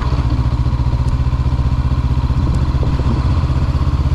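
Honda CB500F's parallel-twin engine running steadily at low revs, an even, fast low pulsing with no change in pitch.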